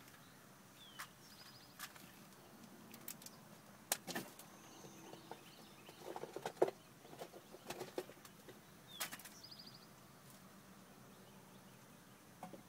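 Quiet outdoor ambience: a bird calls twice, about eight seconds apart, each call a short falling note followed by a high buzzy trill. Scattered clicks, knocks and rustles from a handheld phone being moved and handled around it.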